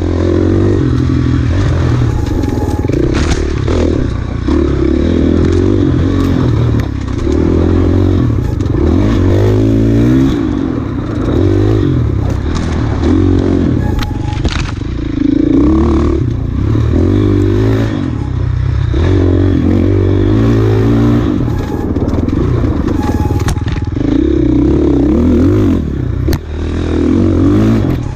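KTM enduro motorcycle's engine revving up and down over and over as it is ridden hard along a rough trail, with clattering and knocks from the bike over rocks and bumps.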